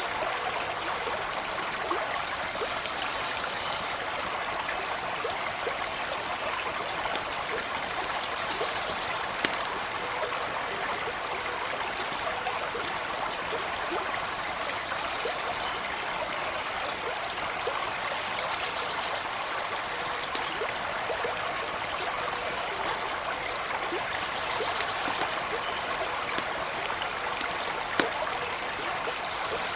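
A small stream running steadily, with scattered sharp crackles and pops from a campfire burning beside it, one pop louder near the end.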